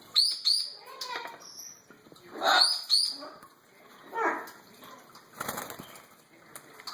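Baby Meyer's parrot flapping its wings in short bursts and giving short high chirps that fall in pitch, a pair near the start and a few more about two and a half seconds in.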